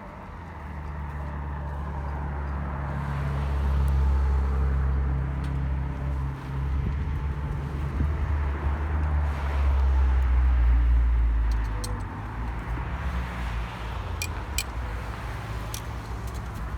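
A motor vehicle's engine and tyre noise running close by, swelling and then falling away about twelve seconds in. A few light clicks follow near the end.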